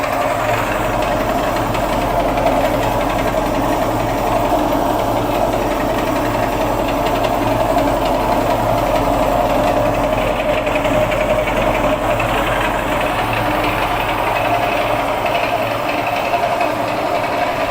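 Homemade spring-engine generator rig running: a steady mechanical hum with a rattling buzz, its lowest hum fading near the end.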